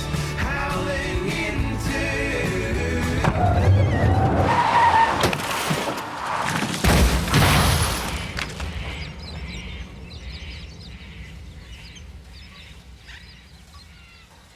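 A rock song with singing, cut off by a car's tyres skidding and a loud crash about seven seconds in, as the car hits a tree; then the sound fades away.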